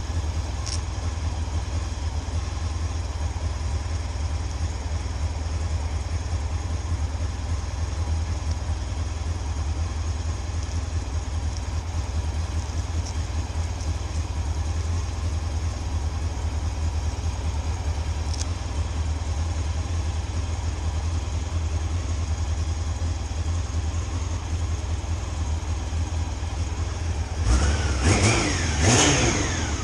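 Motorcycle engine running with a steady low rumble. Near the end it revs up louder, its pitch rising in a couple of quick sweeps.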